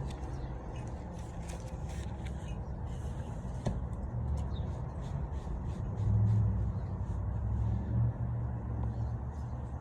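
Small birds chirping in quick, short high notes again and again, over a steady low rumble of passing traffic that grows louder around the middle.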